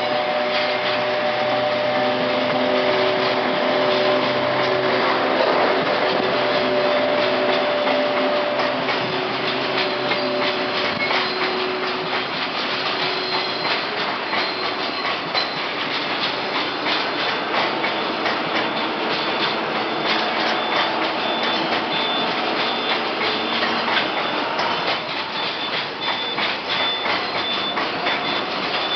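EF81 electric locomotive and its freight train pulling into a station: a steady whine from the locomotive for the first ten seconds or so, then the freight wagons rolling past with rapid clicking over the rail joints.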